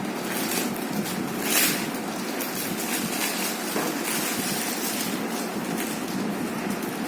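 Monitor packaging being handled: a run of short rustles, clicks and knocks, one louder about one and a half seconds in, over a steady background hiss.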